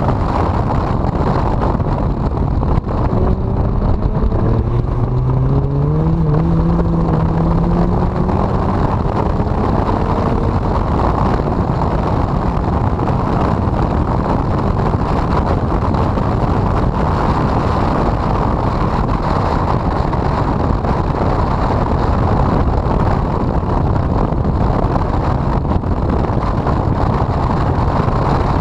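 Honda CRX engine running hard on track, buried in heavy wind buffeting on the microphone. From about 3 to 10 seconds in, the engine note climbs steadily as the car accelerates.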